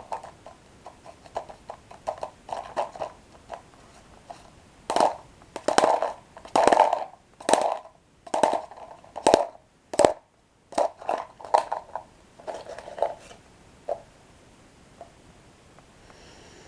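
Close-miked chewing of crunchy toasted bread sticks with cocoa cream: irregular crunches, loudest and densest in the middle stretch, thinning out near the end.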